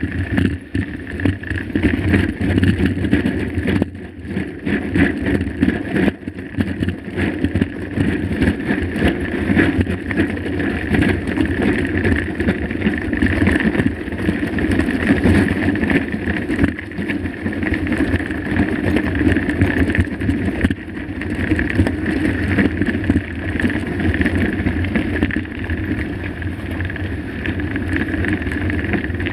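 Mountain bike ridden over a rough, rocky trail: a continuous rumble with constant rattling and knocking from the bike.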